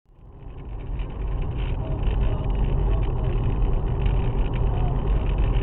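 Steady low rumble of a car on the move, engine and road noise as picked up by a dashcam microphone, fading in over the first second.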